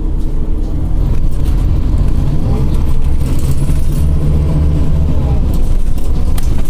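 Scania OmniCity city bus under way, heard from inside: the diesel engine and drivetrain run with a heavy low rumble. About halfway through, a fainter whine rises and falls.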